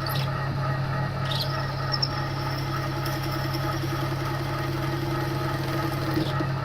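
TOS milling machine running steadily while its carbide drill bit cuts into a snapped stainless-steel exhaust stud, with a few brief high squeals from the cut.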